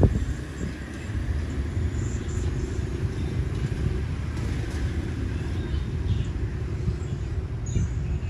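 Low rumble of a passenger train rolling away along the track, with a sharp thump right at the start.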